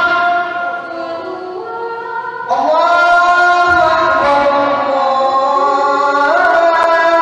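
A singing voice holding long, drawn-out notes in a sinden-style melody, sliding up to a new pitch about two and a half seconds in and again near the end. It is softer at first and louder after the first rise.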